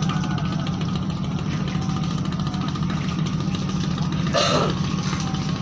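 Ship's engine running with a steady low drone, and a short noisy burst about four seconds in.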